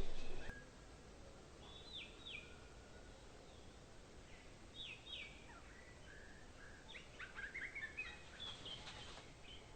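Bird calls over a faint steady hiss: a louder rushing noise cuts off sharply at the start, then a pair of short sweeping notes about two seconds in, another pair about five seconds in, and a quicker run of notes a little after seven seconds.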